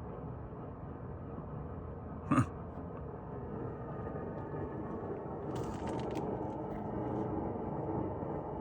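Steady low outdoor rumble with no distinct source, with a single brief thump about two seconds in and a few faint clicks a little past halfway.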